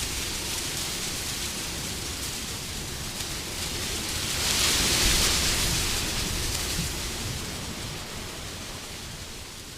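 Wind ambience: a soft, even rush that swells to a peak about halfway through and then slowly dies away.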